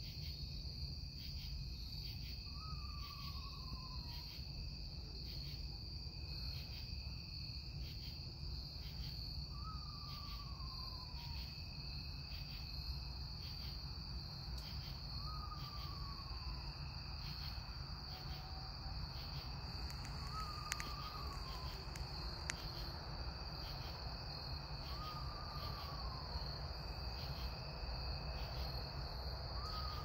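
An unidentified nocturnal bird gives a single clear whistled note that slides down in pitch and lasts about a second, six times, one every five to seven seconds. Steady high insect trilling, like crickets, runs underneath with an even pulse.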